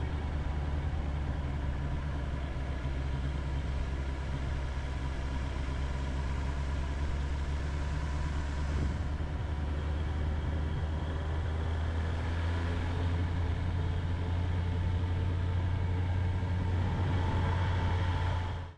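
Honda CB650R's inline-four engine running at a steady pace, a continuous low drone that holds even throughout.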